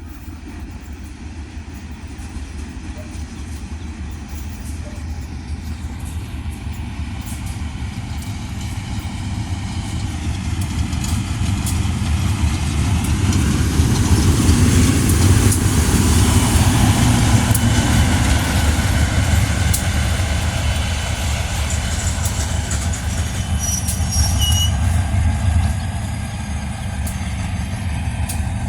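Diesel-hauled State Railway of Thailand ordinary passenger train rolling into a station. The engine and the wheels on the rails grow louder to a peak about halfway through, then ease as the train slows to stop, with a brief brake squeal near the end.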